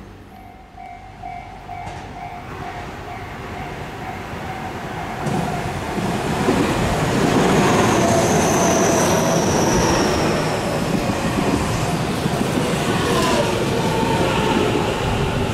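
Tobu Tojo Line electric commuter train running in, growing steadily louder over the first six seconds. A brief high squeal comes about eight seconds in, and near the end a motor whine falls in pitch as the train slows.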